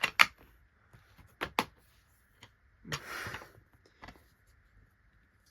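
A plastic DVD case being handled: a few sharp clicks and snaps, with a brief scraping rustle about three seconds in.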